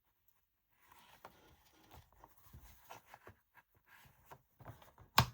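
Paper being handled and shifted on a craft table, rustling with small taps and clicks, then one sharp loud tap near the end.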